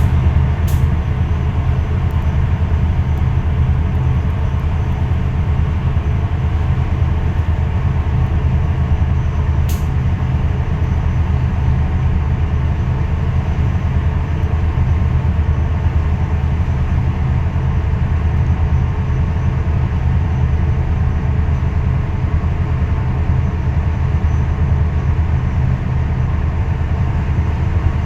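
An engine running steadily, a constant low drone with a few faint higher tones above it, broken only by two brief faint clicks, one near the start and one about a third of the way in.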